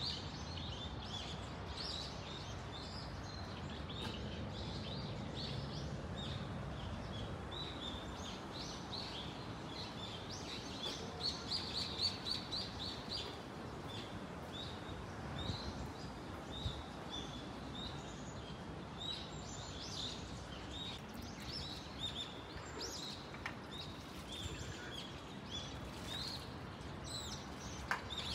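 Small birds chirping: many short, high chirps, several a second, over a steady low background hum of the city.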